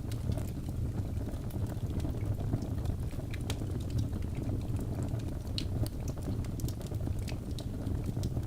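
Wood fire burning in a fireplace: a steady low rumble of the flames with scattered sharp crackles and pops from the logs, several a second.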